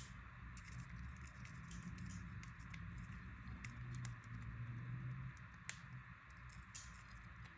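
Faint, irregular clicks and taps of cockatiels' beaks and claws as the birds scuffle, over a faint steady low hum.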